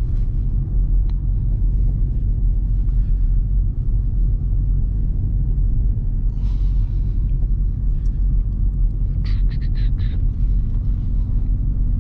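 Dodge Scat Pack's 392 HEMI V8 and tyres on a snowy road, a steady low rumble heard from inside the cabin while driving. A quick run of light clicks comes about nine seconds in.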